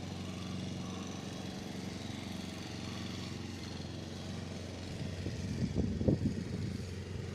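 Vehicle engine idling with a steady low hum, with gusts of wind buffeting the microphone in the last couple of seconds.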